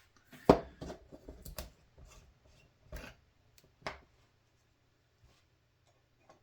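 Small objects being handled and set down on a workbench: a string of light clicks and knocks, the sharpest about half a second in, thinning out after about four seconds to two faint ticks near the end.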